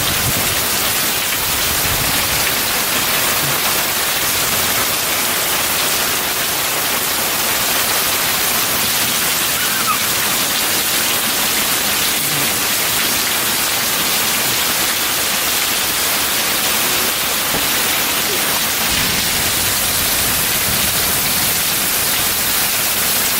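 Heavy rain pouring down steadily, a loud even hiss with no pauses.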